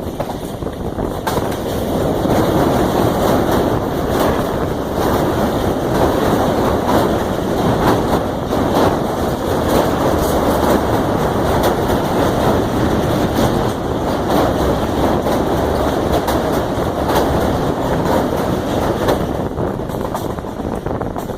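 Pakistan Railways passenger train running: a steady loud rumble and rattle of the carriage, with scattered sharp clicks of the wheels over the rail joints.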